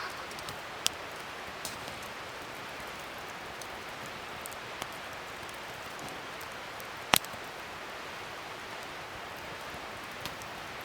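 Wood fire burning with a steady crackle and hiss, broken by a few sharp pops, the loudest about seven seconds in.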